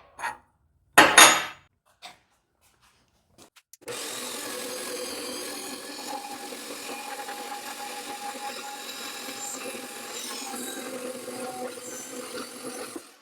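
A sharp metal clank about a second in, then from about four seconds a steady rasping power-tool noise for about nine seconds that stops abruptly near the end.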